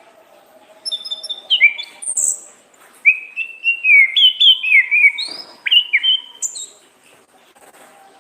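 Orange-headed thrush singing a loud run of varied, quickly changing whistled phrases, starting about a second in and stopping about a second before the end.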